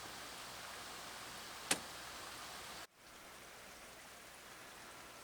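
Faint steady background hiss with a single sharp click a little under two seconds in. The hiss breaks off abruptly just before three seconds and returns slightly quieter.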